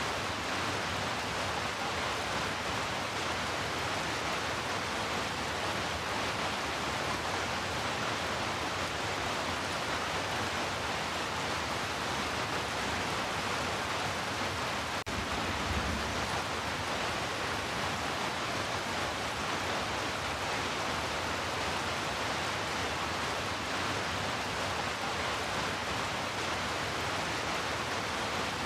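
Heavy rain falling steadily, an even hiss without distinct drops, with a faint click and a short low thump about halfway through.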